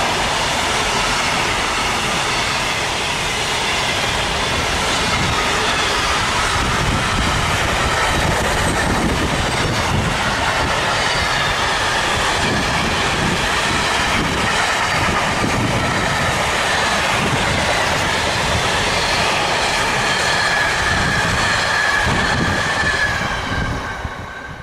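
Intermodal freight train of pocket wagons loaded with lorry trailers rolling past close by: a loud, steady rumble of wheels on rail, with a high wavering squeal from the wheels. The sound falls away quickly near the end as the last wagon goes by.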